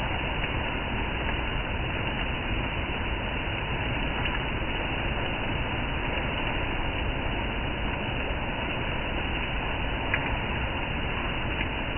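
Steady rain falling, an even hiss, with one sharper tick about ten seconds in.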